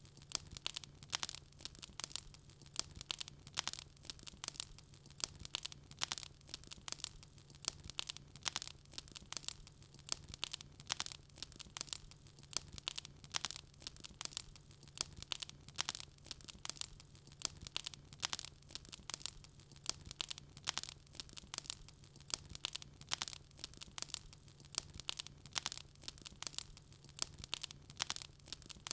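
Wood fire crackling: a dense, irregular stream of sharp snaps and pops from burning logs, several a second, over a faint steady low hum.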